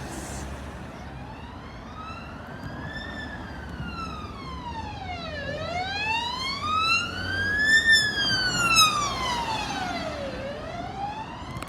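Ambulance siren on a slow wail, its pitch rising and falling about every five seconds. It grows louder to a peak about eight seconds in, then eases as the ambulance passes, over a low engine rumble.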